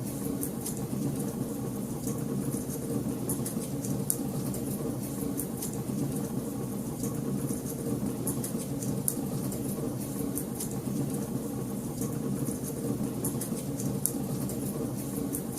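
Wood fire crackling in a fireplace: frequent sharp, irregular pops and snaps over a steady low rumble of burning.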